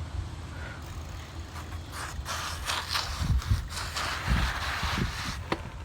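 Rustling, scraping and scattered light knocks of a phone being handled close to its microphone, with a few low thumps.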